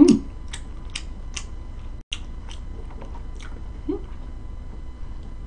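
Close-miked chewing of battered pan-fried jeon: a crisp click about twice a second that fades out after about three and a half seconds. A short loud voiced sound from the eater comes at the start, and a faint one near four seconds in.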